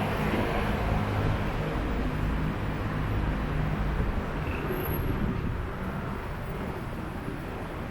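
City road traffic: a steady rumble of cars and buses running past, gradually getting quieter.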